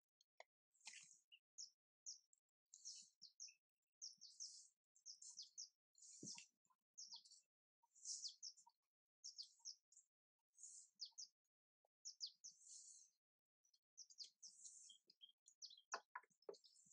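Faint, high chirping of small birds, repeated in short clusters every second or so, with a soft knock about six seconds in.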